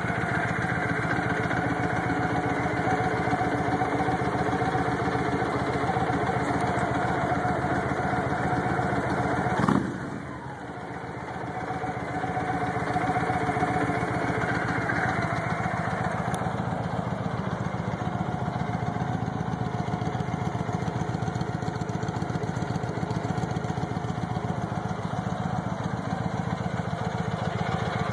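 Victory Jackpot's 106ci V-twin, with stage 1 tuning and a Cobra 2-into-1 exhaust, idling steadily. A sharp blip about ten seconds in is followed by a couple of seconds of quieter running before the steady idle returns.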